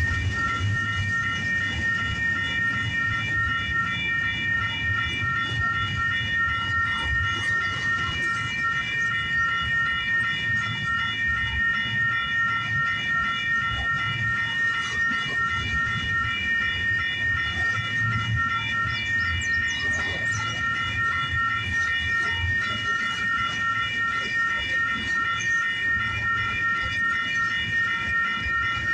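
Freight cars of a long intermodal train rolling past with a low rumble, while a grade-crossing warning bell rings on and on in evenly pulsing high tones.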